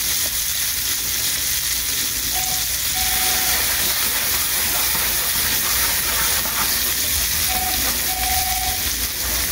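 Red shrimp frying in butter and olive oil in a nonstick pan: a steady sizzle, with fresh butter just added, as the shrimp are moved about with tongs.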